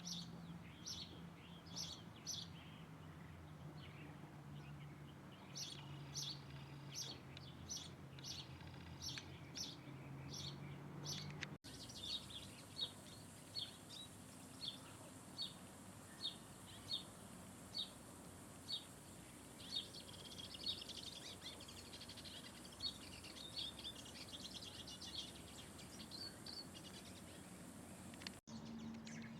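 Small birds chirping: quick clusters of high chirps at first, over a low steady hum, then a regular run of single high chirps about one and a half a second, breaking into rapid twittering near the end.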